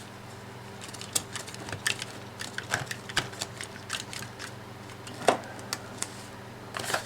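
Caulking gun being pumped to press a nylon fuel line onto its fitting: a run of irregular sharp clicks and clacks from the trigger and plunger rod, with one louder knock about five seconds in, over a faint steady hum.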